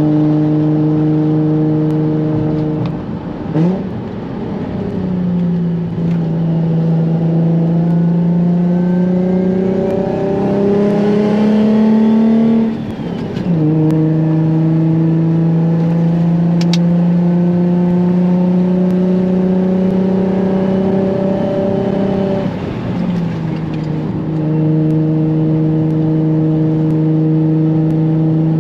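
Single-turbo Nissan 350Z's V6 engine heard from inside the cabin while driving. The engine note rises steadily for several seconds, falls sharply about halfway through, then holds nearly steady, with brief dips in pitch and level a few seconds in and again near the end.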